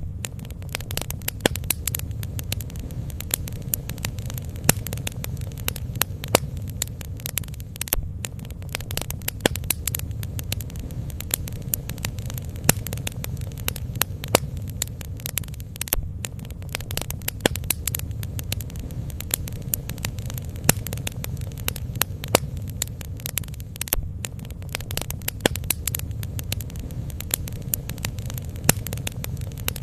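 Bonfire burning: frequent irregular sharp crackles and pops from the burning wood over a steady low rumble of the flames.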